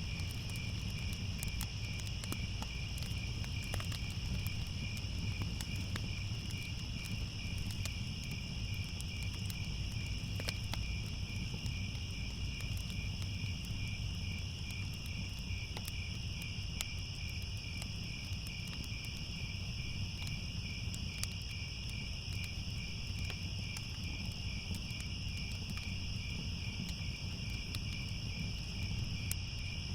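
Crickets chirping in a steady night chorus, a finely pulsing high trill with a second, higher insect band above it. A low rumble runs underneath, with scattered faint clicks.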